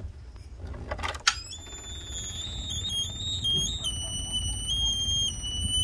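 A click as the ignition key of the 1999 GMC Savana is turned to on, followed by a continuous high electronic alarm tone that jumps between a few pitches.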